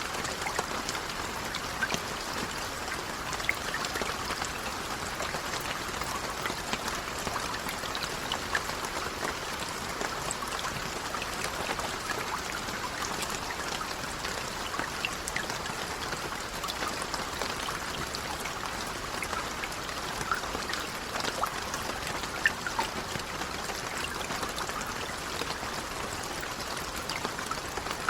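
Light rain falling steadily: an even hiss with scattered single drops ticking through it.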